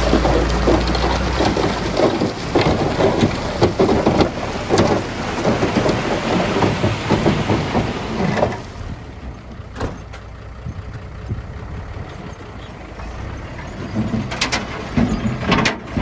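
Earthmoving machinery working rock and soil: a loud, rough clattering of stones and dirt over engine noise, which drops to a quieter level about halfway, with a few separate knocks near the end.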